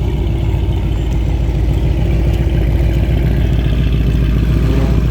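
A car engine idling with a steady low exhaust rumble, loud and close.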